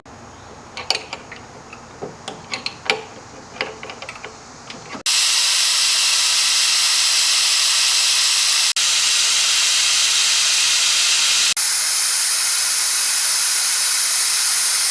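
Scattered light clicks and knocks of hand tools. About five seconds in, a loud steady hiss of compressed air starts, briefly interrupted twice.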